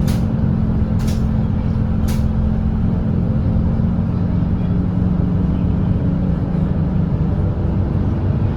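Volvo B8RLE double-decker bus's diesel engine running steadily at cruising speed, a constant low drone mixed with road noise. A few sharp ticks about a second apart sound in the first two seconds.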